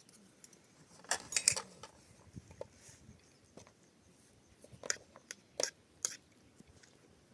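Scattered clinks and taps of a metal spoon against dishes: a quick cluster about a second in, then a few single sharp clinks later on.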